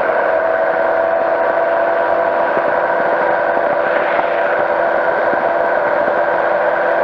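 Powered parachute's engine and propeller running steadily in flight, a continuous drone with several steady tones.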